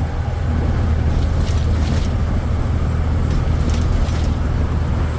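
Kenworth K100 cab-over truck's diesel engine running at a steady pitch while driving, heard from inside the cab as a loud, even drone.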